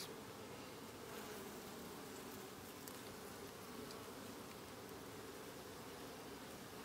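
Honeybees buzzing steadily around an open hive during a frame inspection, an even hum that doesn't change.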